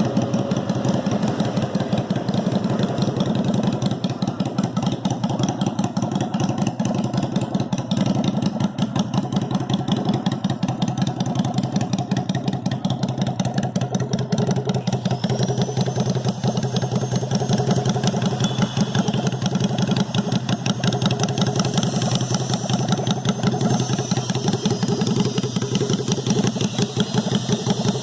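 Suzuki Intruder 250 V-twin engine idling steadily, with a quick even beat of firing pulses.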